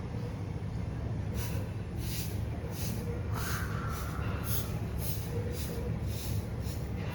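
Outdoor ambience through an opened window: a steady low rumble with a rhythmic high-pitched chirping, about two a second, starting about a second in.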